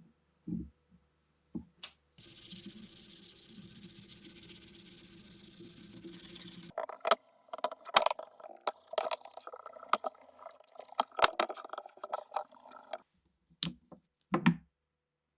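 Hand work in a restoration: a couple of knocks, then a steady hiss lasting about four and a half seconds, then scraping and rubbing on a hard surface with many sharp clicks. A few more knocks come near the end.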